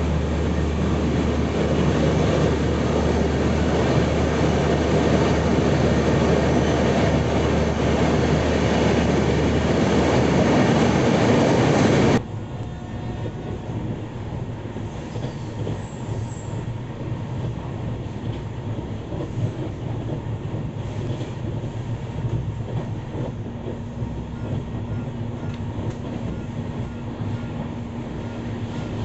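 Passenger train running on the rails, a loud, steady rumble of wheels and carriage. About twelve seconds in it cuts off suddenly to a quieter, steady train noise.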